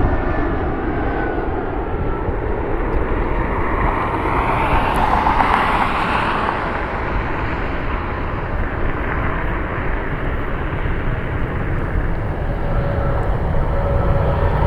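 Jet airliner arriving past the airfield: its engine noise swells to a peak about five seconds in and then eases, over a steady low rumble.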